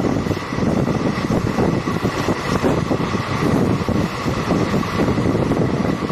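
Express passenger train running, heard from on board, with wind buffeting the microphone.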